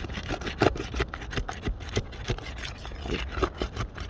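A tool scraping and prying under asphalt roof shingles to break their seal strips, in quick, irregular scrapes and clicks. The shingles are old and brittle, tearing and shedding mat as they come loose.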